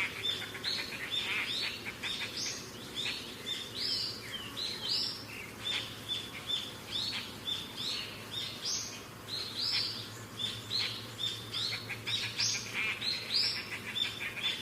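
Lory giving a steady run of short, high chirping calls, about two a second, mixing flat notes with quick rising sweeps.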